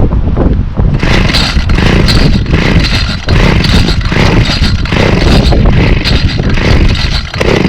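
A Homelite Trim Lite string trimmer's 25cc two-stroke engine comes to life about a second in and runs loudly, its speed dipping briefly a couple of times. There is no trimmer line on the head.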